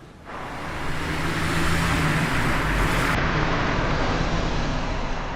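Road traffic noise, swelling over the first second or two and easing off near the end.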